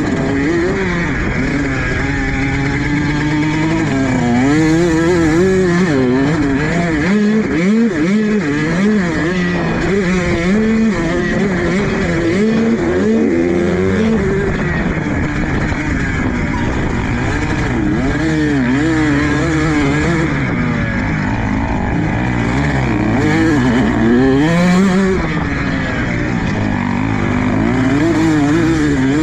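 Motocross dirt bike engine revving up and down without a break, its pitch climbing and dropping every second or two as the throttle is worked and gears are changed around the track.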